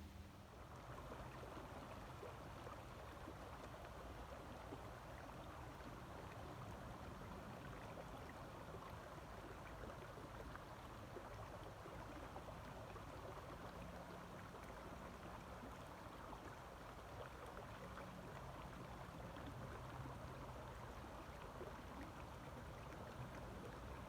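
Faint, steady flowing water of a small creek, starting about half a second in.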